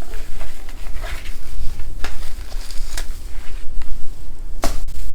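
A garland being handled and draped, giving short rustles and crackles several times over a steady low rumble of handling on the microphone.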